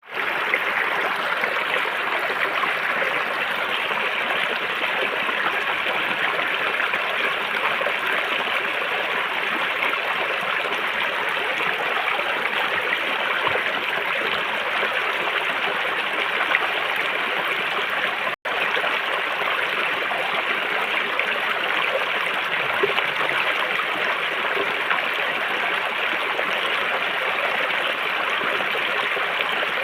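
River water flowing over rocks in a steady, even rush, with one momentary dropout about two-thirds of the way through.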